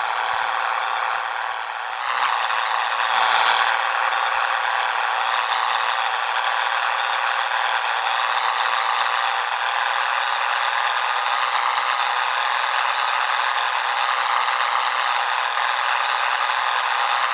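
Bonneted Scania 113 truck's diesel engine running steadily on the road, with a wavering whine and cab rattle. It briefly dips about a second in, then picks back up.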